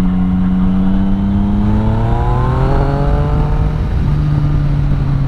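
Yamaha Tracer 900's three-cylinder engine with an Akrapovic exhaust, running under way. The pitch rises as it accelerates from about two seconds in, then drops near four seconds with an upshift and runs steady, over a low wind rumble on the microphone.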